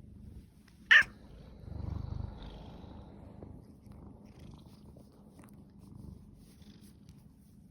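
Domestic cat purring in a low rumble that swells about two seconds in. There is one brief, sharp, high-pitched sound just before that, about a second in.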